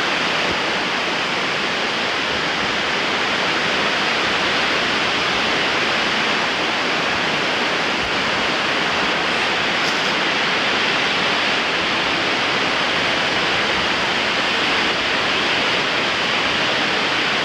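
Strong wind blowing through the woods: a loud, steady rushing noise.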